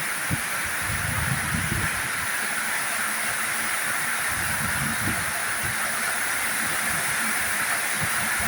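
Heavy rain falling as a steady hiss, with irregular low rumbles underneath.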